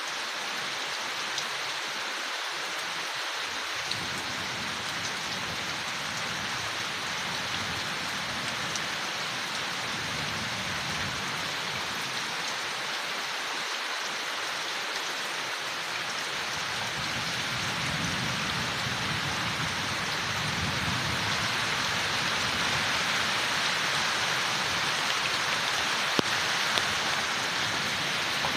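Steady rain falling on leaves, a dense even patter with a few sharper drops, growing somewhat heavier and louder in the second half.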